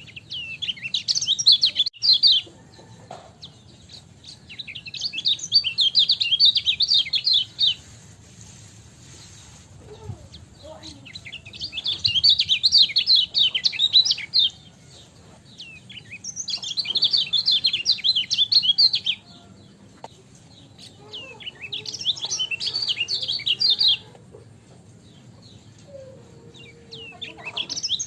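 Kecial kuning white-eye singing in repeated bouts of rapid, high twittering song, each two to three seconds long with short pauses between.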